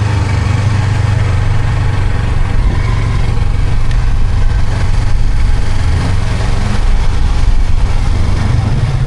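Yamaha R25's parallel-twin engine running steadily, a loud constant low rumble.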